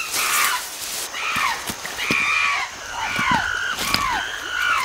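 Chimpanzees calling in a threat display: a run of short arched calls that rise and then fall, about two a second, with a few sharp knocks among them.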